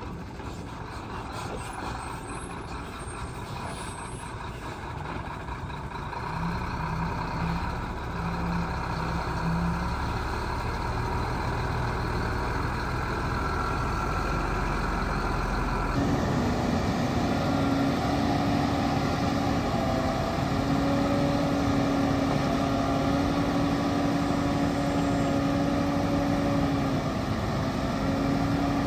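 Diesel engines of heavy earthmoving machines running steadily. About halfway through the sound changes abruptly to a louder, steadier engine note with a held hum.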